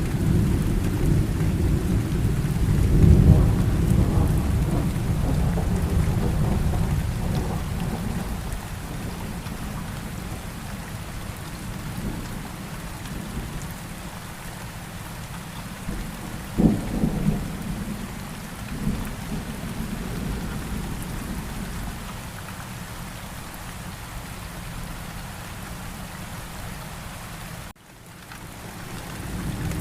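Steady rain with thunder: a long, heavy rolling rumble in the first several seconds, a sharper thunderclap about 17 seconds in, then rain on its own. Near the end the sound briefly cuts out before another rumble of thunder builds.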